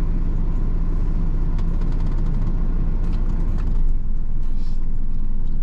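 Parked van's engine idling, a steady low hum heard inside the cab, with a few light clicks partway through. The low hum shifts slightly about four seconds in.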